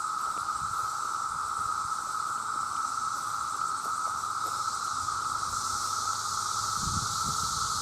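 A dense chorus of male cicadas calling, merging into one steady, unbroken drone with a higher hiss above it that grows brighter a little past halfway. A few faint low knocks come near the end.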